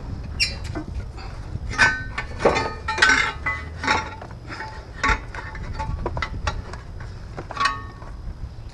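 Metal hand tools and loose engine parts clinking and knocking together, a string of irregular sharp clinks, some ringing briefly, over a low background rumble.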